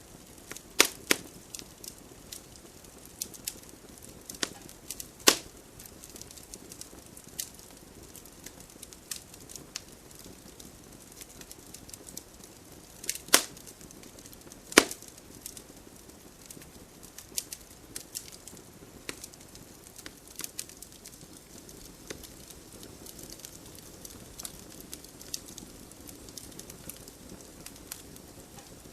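Wood campfire crackling: irregular sharp snaps and pops, a few much louder than the rest, over a faint steady hiss.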